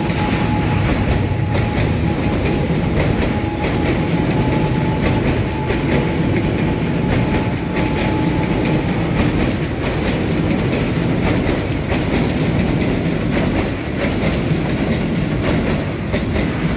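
Train crossing the railway bridge overhead, its wheels running over the rails. A steady high whine stops about halfway through.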